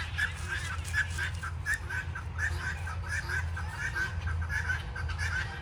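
Guinea fowl calling, a rapid string of short, harsh calls, about three a second.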